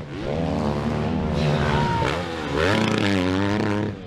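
Several dirt bike engines revving and overlapping, their pitch rising and falling over and over.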